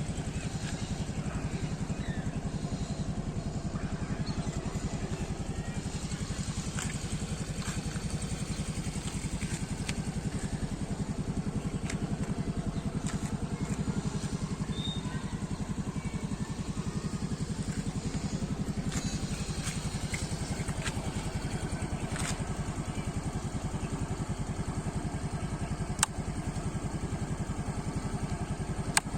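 Yamaha RayZR 125 Hybrid scooter's 125 cc single-cylinder engine idling steadily through its exhaust, with a few sharp clicks near the end.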